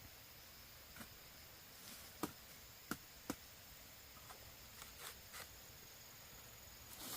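Quiet background with a handful of short, sharp clicks and light knocks at irregular intervals, the loudest about two and three seconds in.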